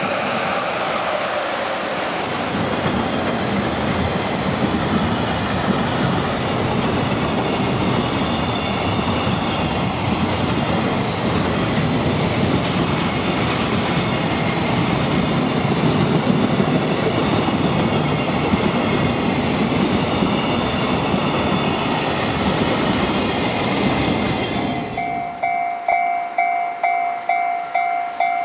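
Container freight train hauled by an EF66 electric locomotive passing close by: a steady heavy rumble with the wheels clacking over the rail joints. About 25 seconds in it cuts off abruptly to a railway level-crossing warning bell ringing about twice a second.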